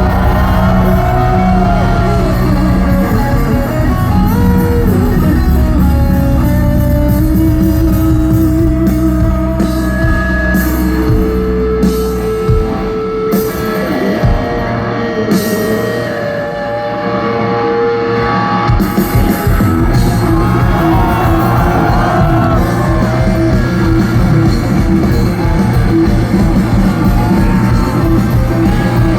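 Live rock band playing an instrumental passage on electric guitars, bass and drums. About halfway through, the low end of bass and drums falls away for several seconds while the guitar lines carry on, then the full band comes back in.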